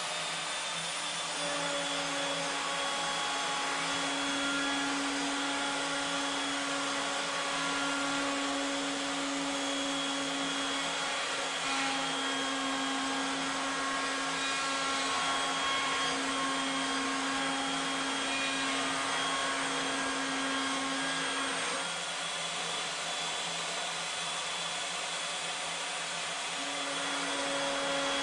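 Woodworking router on a CNC ornamental mill running at full speed with a steady high whine, milling a three-start rope spiral into 1.5-inch wood stock with a 1-inch bit. A lower hum in the sound drops out about two-thirds of the way through and comes back near the end.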